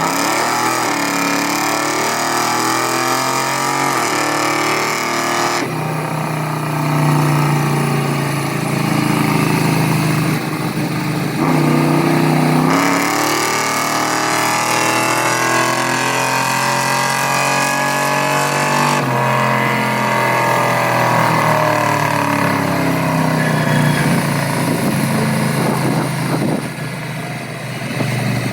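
A truck engine running loudly and revving, its pitch climbing and dropping again and again, with several sudden shifts in pitch.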